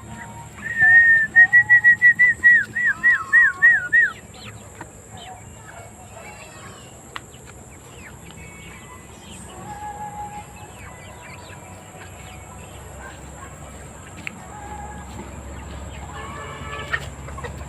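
Loud, clear whistled bird call in the first four seconds: one held note, then about eight quick repeated notes, each dropping at its end. After it come fainter scattered bird calls over a low steady hum.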